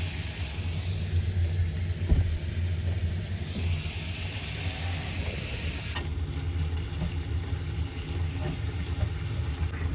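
A steady low hum throughout, with the fine hiss of meat frying in a pan over it; the hiss drops away suddenly about six seconds in. A single knock comes about two seconds in.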